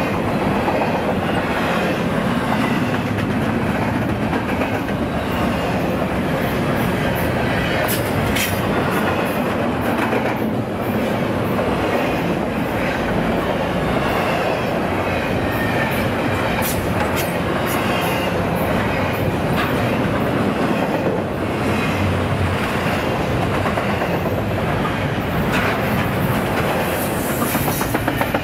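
Double-stack intermodal container train's well cars rolling past: a steady rumble of steel wheels on the rails with clickety-clack and scattered sharp clicks as the trucks pass over rail joints.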